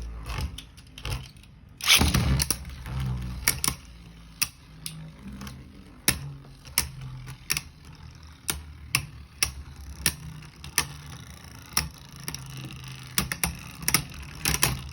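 Two Beyblade Burst tops spinning in a plastic stadium, clashing again and again with sharp irregular clicks over a steady low whir. A loud scraping clash comes about two seconds in.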